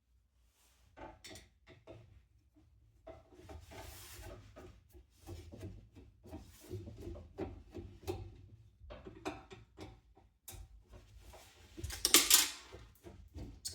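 Plastic and metal parts of a box fan being handled during disassembly: irregular clicks, knocks and rubbing, with a louder scrape or rattle near the end.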